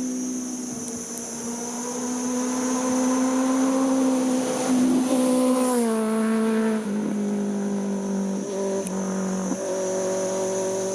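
A motorcycle engine passing by at steady revs. It grows louder to a peak about halfway, then its pitch drops as it goes past, with a few brief dips and steps in pitch near the end.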